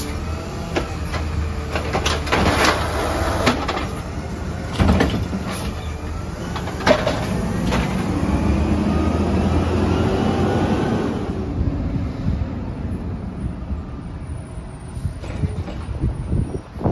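Peterbilt 320 garbage truck running, with a steady engine drone and several sharp metal clanks and knocks. About eight seconds in, a rising whine builds, then the truck's sound drops away and stays quieter after about eleven seconds.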